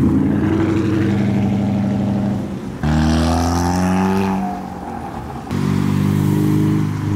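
Car engines running close by as cars leave. About three seconds in the sound changes suddenly and one engine revs up and falls back, then steadier engine running returns about two seconds later.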